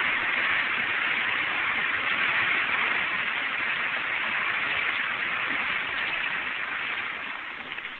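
Audience applauding, heard through a hissy, narrow-band 1932 recording; the applause dies away near the end.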